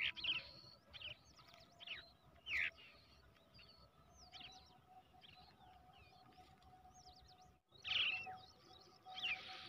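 Brown shrike chicks chirping: short, high calls that slide downward, repeated in quick clusters, with a denser, louder burst near the end.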